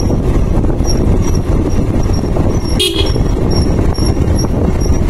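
Steady low rumble of a vehicle on the move, with a short horn toot about three seconds in.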